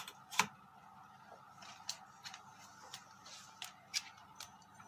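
Irregular light clicks and ticks, roughly one or two a second, with a sharper one about half a second in, over a faint steady hum.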